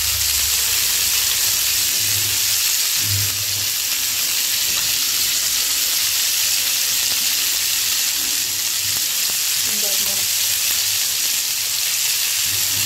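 Skewered chicken tikka pieces sizzling steadily as they pan-fry in oil and butter in a non-stick frying pan.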